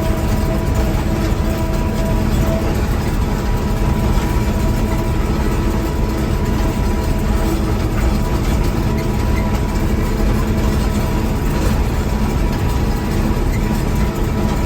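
Vehicle engine and road noise heard steadily from inside the cab: a continuous low rumble with a few faint steady hums over it.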